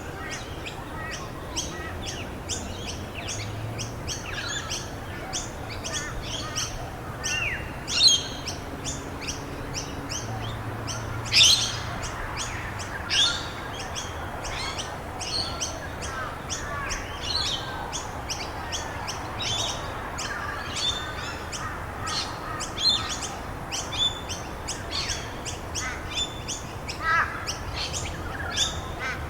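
Many songbirds chirping and calling continuously in short rapid notes, with a couple of louder, sharper calls about 8 and 11 seconds in, over a steady background hiss.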